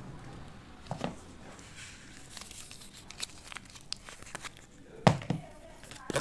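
Packaging being torn and crinkled open by hand, with scattered crackles and a few dull thumps, the loudest about five seconds in.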